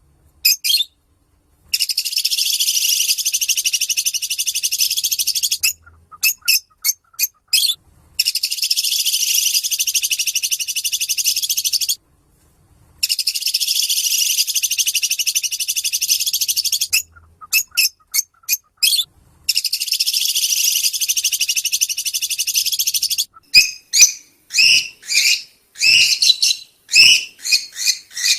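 Lovebirds singing the long, rapid, high-pitched chattering trill called 'ngekek': four unbroken runs of about four seconds each, separated by short chirps. Near the end the trilling gives way to separate sharp chirps.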